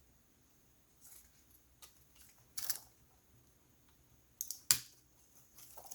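Scattered small clicks and scrapes of laptop parts and a small screwdriver being handled during reassembly. There is a short scrape a little under three seconds in, and the sharpest click comes just before five seconds.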